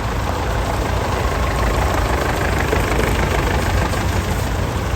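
Tractor engines running steadily at idle, an even low rumble.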